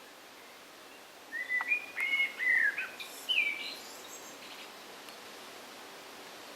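A songbird singing one short phrase of several quick, bending notes, starting about a second in and lasting about two seconds, over a faint steady hiss.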